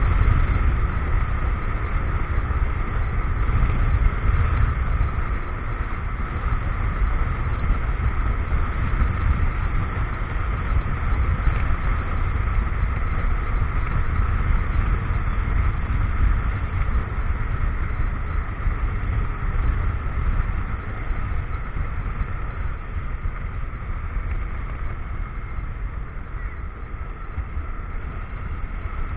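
Motorcycle riding on the road: the engine running steadily under wind and road noise on an action camera's microphone.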